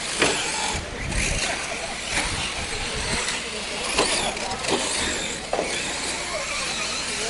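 A pack of 4WD short-course RC trucks racing on a dirt track: the motors whine up and down in pitch as they accelerate and brake, with tyre noise and several sharp knocks from landings and contacts.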